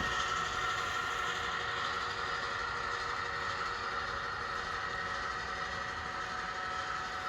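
Model train running on an N scale layout: a steady whine from the locomotive's small motor over a hiss of wheels on track.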